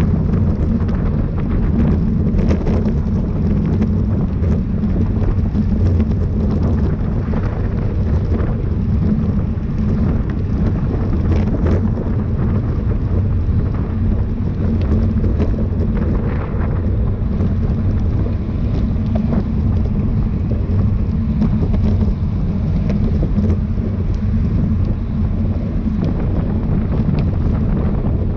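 Wind buffeting the microphone of a camera riding along in a bicycle race: a steady, loud low rumble that does not let up.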